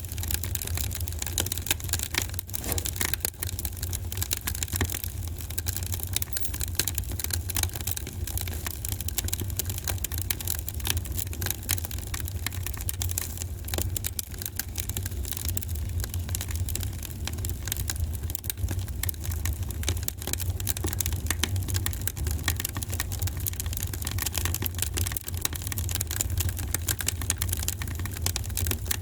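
Wood fire crackling in a fireplace: a dense run of small snaps and pops over a steady low rumble.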